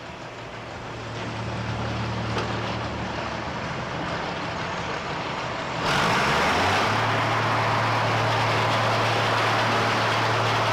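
Engine running steadily with a low hum that builds over the first seconds, then turns abruptly louder and harsher about six seconds in.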